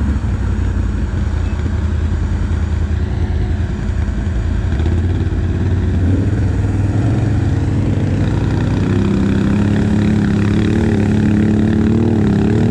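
ATV engine running under way, its pitch climbing as it speeds up about halfway through and then holding steady at the higher speed.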